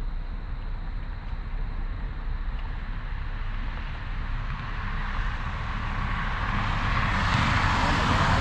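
A steady low rumble, then from about halfway a roar that swells over a few seconds and is loudest near the end, without a sharp crack: the distant blast and flare-up of a burning crashed truck, which the onlooker takes for some sort of fuel tank going up and calls a crazy explosion sound.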